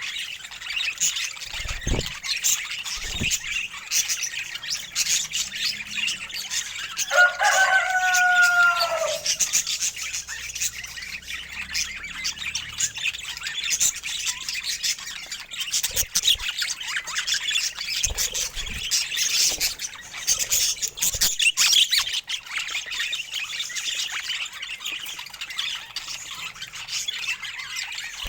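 Pet budgies chattering and chirping continuously in quick, high twitters. About seven seconds in, one longer, lower call lasts about two seconds and dips slightly in pitch at its end.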